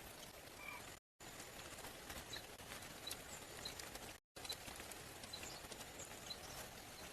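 Faint forest ambience: a steady hiss with short, high chirps every second or so, cut off by two brief silent gaps about a second in and about four seconds in.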